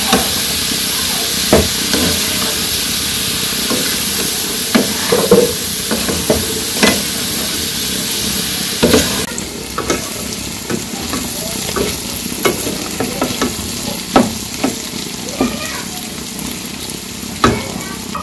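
Vegetables sizzling in hot oil in a frying pan while a wooden spatula stirs and scrapes them, with scattered clicks and knocks of the spatula against the pan. About nine seconds in the sizzle becomes quieter, from a wok of bitter gourd slices being stirred.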